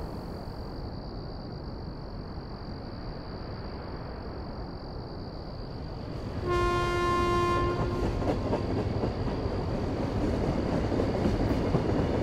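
Steady outdoor rumble, then about six and a half seconds in a freight train's horn sounds one blast of about a second and a half. Afterwards the passing train's rumble and wheel clatter grow louder.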